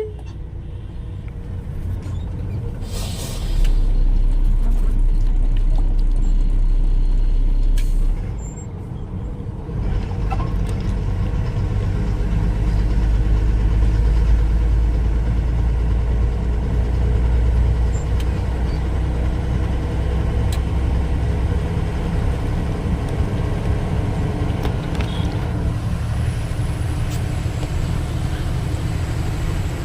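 Heavy truck engine running with a steady low rumble. There is a brief hiss about three seconds in. The rumble grows louder and deeper for several seconds, eases off briefly, then settles back to steady running.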